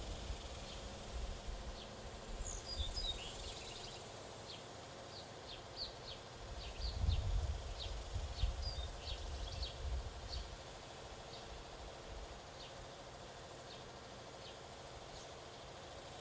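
Small birds at a feeder chirping: a run of short, high chirps, thick at first and thinning out toward the end. A low rumble rises and falls about seven seconds in.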